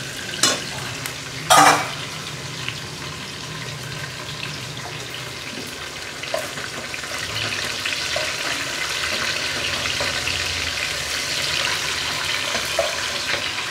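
Hot oil and ghee sizzling steadily as matar dal fritters fry in a kadai and whole spices, nuts and green chillies fry in a pot, with a spatula stirring and scraping. A sharp knock of utensil on pan comes about a second and a half in, and the sizzling grows a little louder in the second half.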